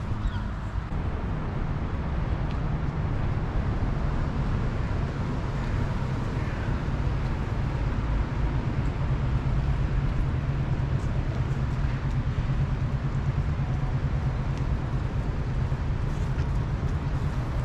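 Steady low rumble of outdoor background noise, like road traffic or wind on the microphone.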